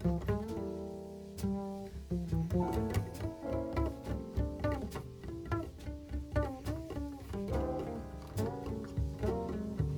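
Small-group jazz recording in which a plucked double bass carries the line, probably a bass solo: a run of single notes, some bent, over light percussion clicks.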